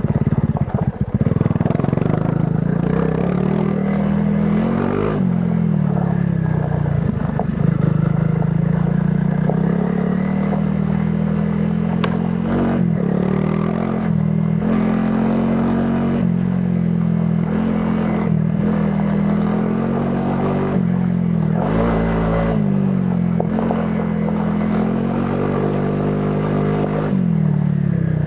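A Honda CRF300 Rally's single-cylinder four-stroke engine running through its stock exhaust while riding off-road. The engine note rises and falls again and again with throttle and gear changes, and short knocks and rattles come from the bike over rough ground.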